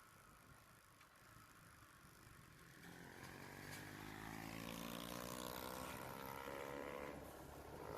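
Motorcycle engine running faintly, then rising in pitch about three seconds in as it speeds up, holding steady and easing off briefly near the end.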